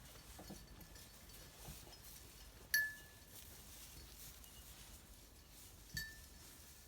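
A small sheep bell clinks twice, about three seconds apart; each strike rings briefly on a clear tone and dies away.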